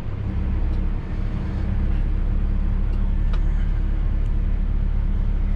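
Cat 313 excavator's diesel engine running steadily with a low hum, heard from the operator's cab, as he works the machine to cut a ditch down to a target slope.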